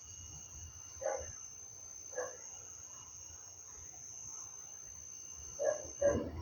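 Steady high-pitched chirring of crickets, with a few short animal calls: one about a second in, one about two seconds in, and two close together near the end.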